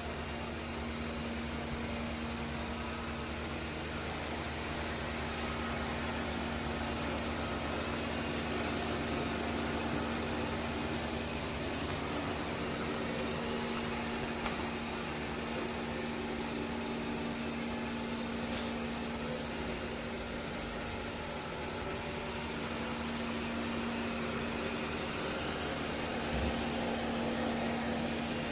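ECOVACS DEEBOT T50 PRO Omni robot vacuum running, its suction motor giving a steady hum with a faint high whine.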